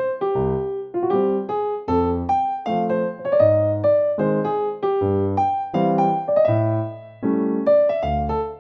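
Background music: a piano-type keyboard playing a light melody of separate notes over bass notes.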